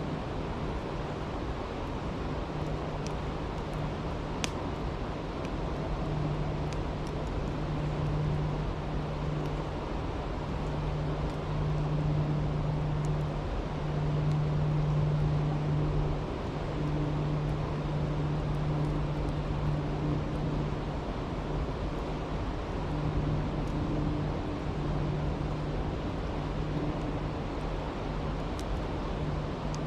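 Stream rushing steadily, with a few sparse crackles from a campfire, one sharper pop about four and a half seconds in. A low hum swells and fades under the water sound.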